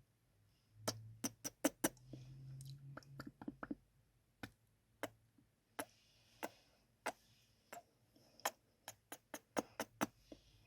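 Close-miked ASMR kissing sounds: a string of sharp, wet lip smacks at an uneven pace, some coming in quick clusters of three or four.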